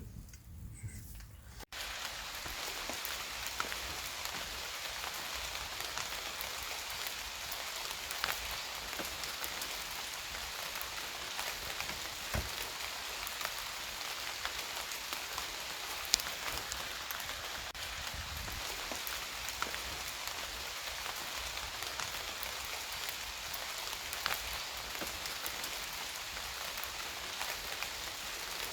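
Steady rain falling, an even hiss with scattered louder drops ticking close by. It starts abruptly about two seconds in, after a quieter low rumble.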